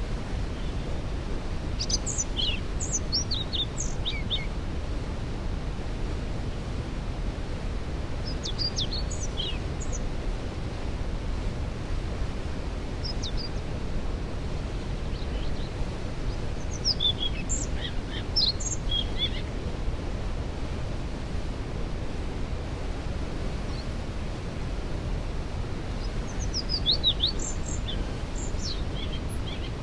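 Steady rushing of a waterfall, with songbirds singing short, high phrases several times over it.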